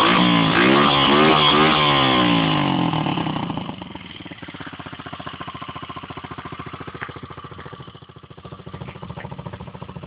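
Loncin 150 cc dirt bike's single-cylinder four-stroke engine being revved up and down several times, then dropping back to a steady, rapidly pulsing idle after about three and a half seconds.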